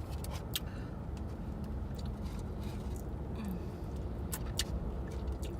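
Chewing and lip-smacking on fried chicken wings: scattered sharp wet clicks over a steady low rumble of a car interior.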